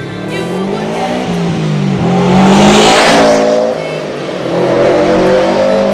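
Subaru Impreza Turbo's turbocharged flat-four boxer engine accelerating hard, its pitch climbing, dropping briefly a little past halfway as it changes gear, then climbing again.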